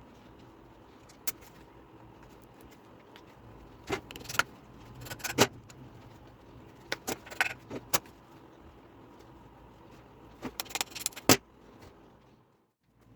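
Irregular small hard clicks and clatters, like metal knife parts and tools being handled and set down on a workbench, coming in short clusters over steady room noise.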